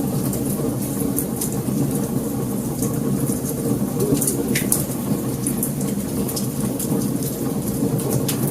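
Wood fire burning: a steady low rush of flames with frequent sharp, irregular crackles and pops of burning wood.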